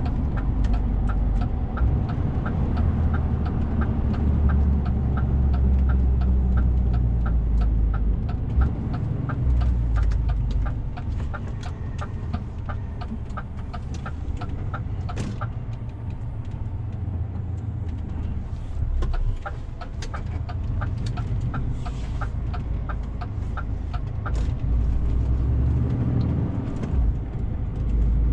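DAF CF 450 truck's engine and road noise as a steady low rumble from inside the cab, easing off partway and building again near the end. Over it the turn-signal indicator ticks evenly, stops about halfway, then ticks again for a few seconds.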